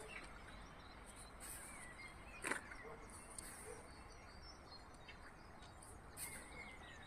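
Faint outdoor ambience: a steady low hiss with a few short bird calls and high repeated chirping. There is one sharp click about two and a half seconds in, the loudest sound in the stretch.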